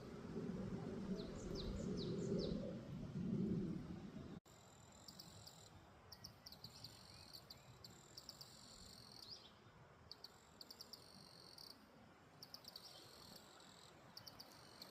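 Outdoor ambience of wild birdsong: a low rumble with a few quick, falling high chirps at first, then after a sudden cut about four seconds in, a quiet background with repeated groups of high-pitched chirping trills.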